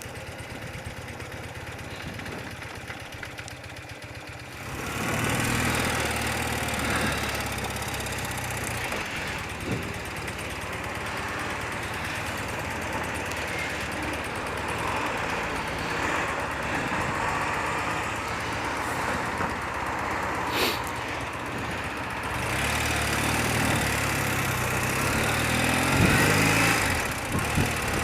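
Old BMW motorcycle engine running, quiet and steady at first, then much louder from about five seconds in with a broad rushing noise over the engine's low hum.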